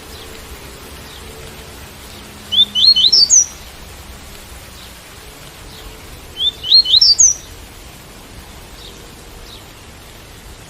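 Coleiro tui-tui (double-collared seedeater) singing: two short phrases of quick, upward-sweeping notes about four seconds apart, over a steady hiss of rain.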